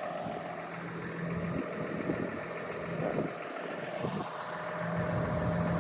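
An engine idling steadily, a constant low hum under a steady background hiss.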